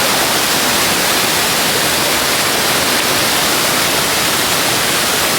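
Waterfall: falling water rushing steadily and loudly as an even hiss, close to the microphone.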